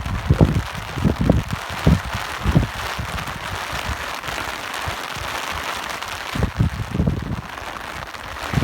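Steady rain hiss with irregular low gusts of wind buffeting through it, heavier in the first few seconds and again near the end.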